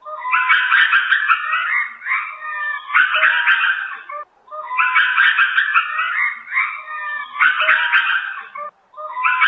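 Lemur calls: rapid, yapping chatter in phrases of about two seconds that repeat over and over with brief gaps, a recording looped several times.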